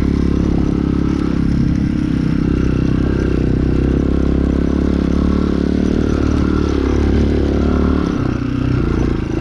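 Chinese 250cc dirt bike's single-cylinder engine running steadily under throttle while being ridden, easing off briefly near the end.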